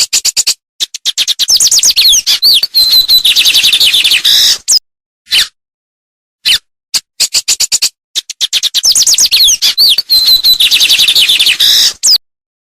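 A songbird singing a long, rapid phrase of chirps and quick whistled glides, then repeating the same phrase after a pause of about two seconds.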